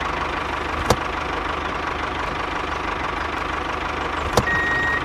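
Tractor engine idling steadily, with two sharp clicks, one about a second in and one near the end. A high steady beep, a reversing beep, starts just before the end.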